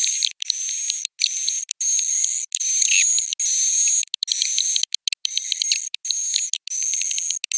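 Recorded swiftlet roosting calls (edible-nest swiftlet): a high, steady buzzy trill laced with rapid clicking twitters, broken by sudden brief silences. This is the 'inap' call played in swiftlet houses to draw the birds in to roost and nest.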